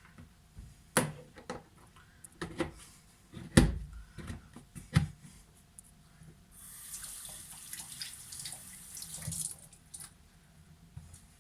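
A few sharp knocks and clatters, then water running for about three seconds before it stops.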